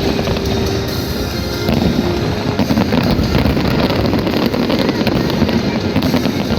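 Fireworks bursting and crackling in rapid, continuous succession, with music playing alongside.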